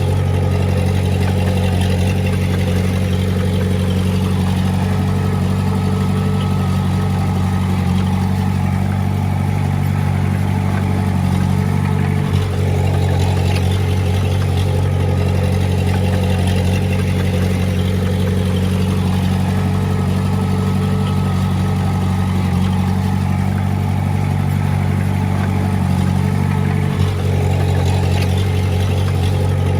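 Heavy diesel engine of earthmoving equipment running steadily at an even speed, with two brief dips, about 12 and 27 seconds in.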